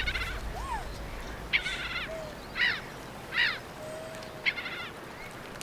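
Birds calling: five short, high chirping calls spaced about a second apart, with a few fainter whistled notes between them.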